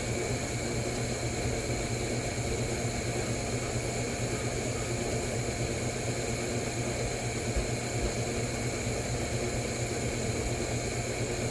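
Steady machine hum with a constant hiss and no distinct knocks or clicks, the even drone of a fan or similar running machine.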